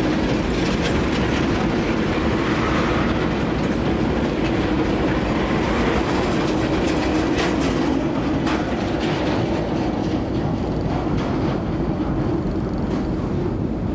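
A narrow-gauge sugar cane railway train running past, its wheels clattering steadily over the rail joints.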